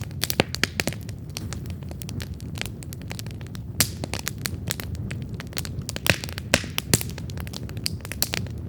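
Wood campfire burning with a steady low rumble of flames and frequent sharp crackles and pops, a few louder snaps scattered through.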